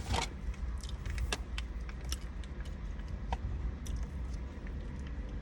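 Steady low vehicle rumble with scattered light clicks and rustles.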